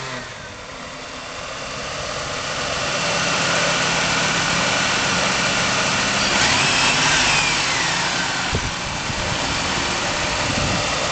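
1989 Ford Taurus 3.8-litre V6 running just after starting, its fuel supplied by the fuel pump jumpered directly to 12 volts, bypassing the IRCM relay. The engine sound grows louder over the first few seconds, then holds steady.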